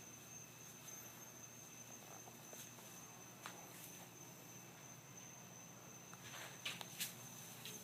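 Near silence: faint room tone with a thin steady high-pitched whine. A few soft scuffs and clicks come near the end.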